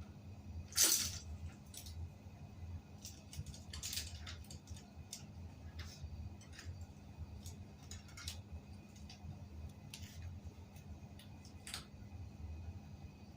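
Scattered light clicks and taps of small hard objects being handled, with one louder sharp clack about a second in, over a steady low hum.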